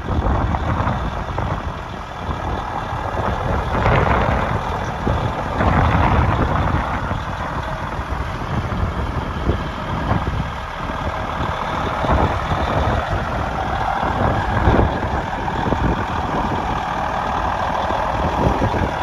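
Heavy diesel truck engine running steadily, its sound swelling and easing several times.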